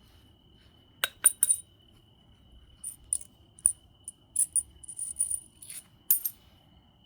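Obsidian biface being knapped: three sharp stone clicks just after a second in, then a run of short, high, scratchy ticks and scrapes from about three to six seconds.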